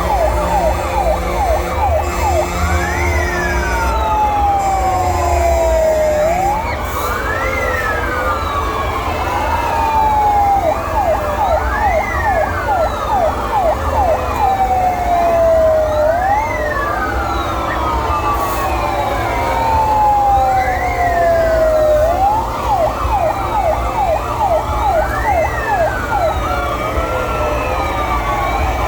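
Several fire engine sirens sounding at once. One wail rises quickly and falls slowly, repeating about every four to five seconds, over a faster yelping siren, with engines rumbling low underneath.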